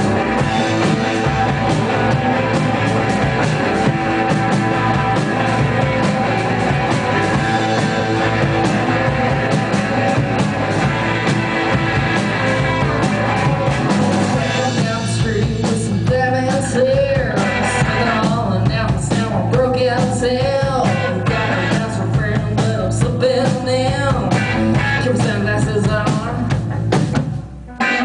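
A rock band playing live, with a singer coming in about halfway through. The music drops out briefly just before the end.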